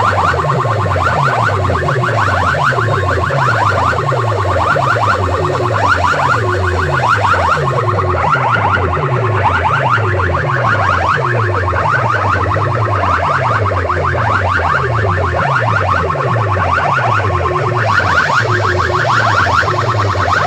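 Loud electronic siren-like sound that repeats steadily: low falling pulses about twice a second under a fast high trill.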